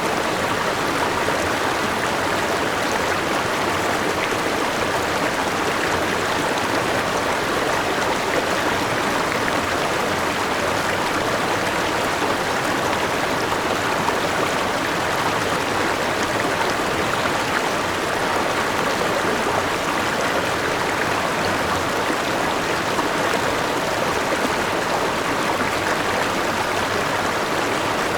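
River water rushing over a small waterfall, a steady, even rush of flowing water.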